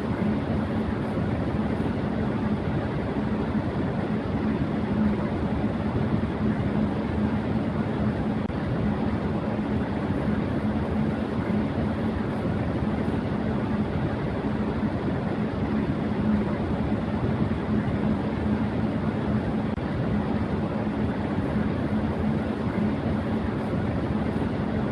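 Electric fan running steadily at high speed: an even whoosh of moving air with a steady hum underneath.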